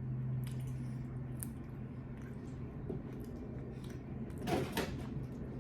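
Close-up eating noises from chicken wings: faint wet mouth clicks and small handling ticks, then a brief louder crunching rustle about four and a half seconds in, over a steady low hum.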